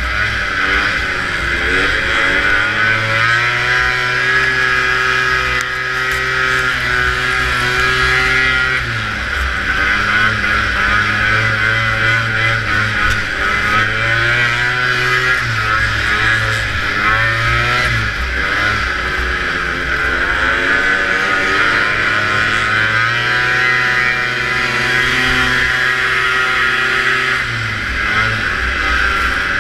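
Vintage snowmobile's two-stroke engine running hard, its pitch repeatedly dropping and climbing back up as the throttle is eased off and opened again. Heard onboard from the rider's helmet camera, with a steady rush of wind and track noise underneath.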